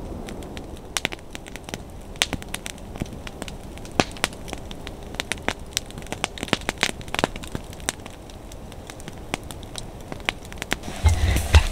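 Wood fire crackling: irregular sharp pops and snaps over a low steady hiss. Near the end a louder low bumping and rustling sets in.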